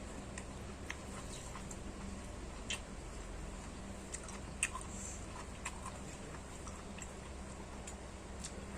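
A person chewing food close to the microphone, with irregular sharp clicks and smacks scattered throughout, over a steady low hum.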